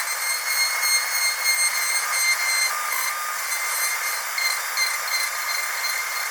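Dentist's drill whining steadily at a high pitch over a hiss, its several tones wavering slightly.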